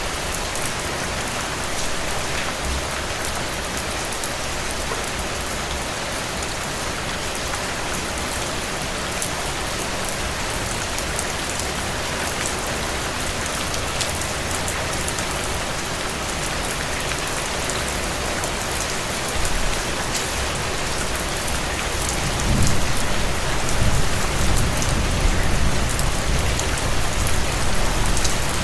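Steady rain falling, an even hiss with fine drop ticks. A low rumble swells in under it about two-thirds of the way through and stays to the end.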